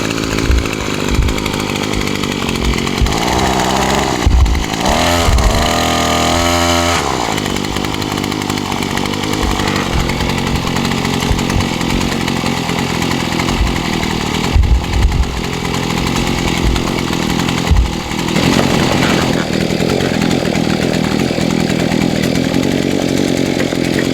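Engine-powered post hole auger running steadily as it bores into clay soil, its pitch dropping and rising for a few seconds about five seconds in.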